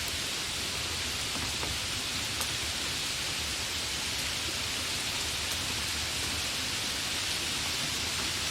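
Steady rain falling, an even hiss with a few faint ticks of single drops striking a surface.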